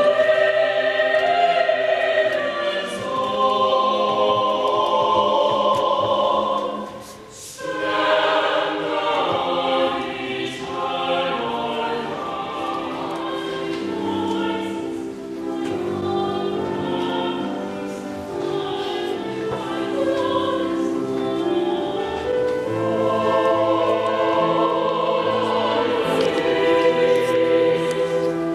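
Church choir singing a Christmas carol in several parts with long held notes, pausing briefly about seven seconds in before the next phrase.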